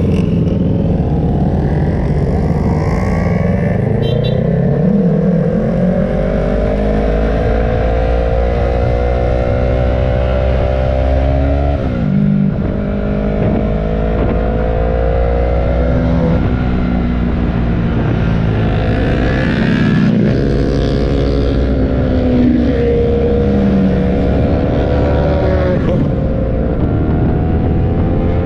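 Yamaha R3's parallel-twin engine pulling up through the gears while riding, its pitch climbing in long, steady rises that drop back sharply at the shifts, one about twelve seconds in and another around twenty. A constant low wind rumble lies under it.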